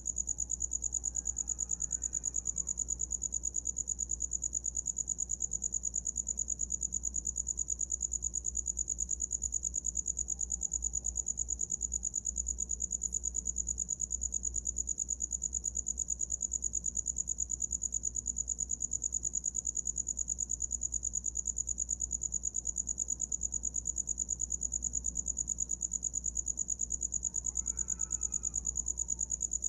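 A cricket singing without pause: a high-pitched chirp repeated in a fast, even rhythm.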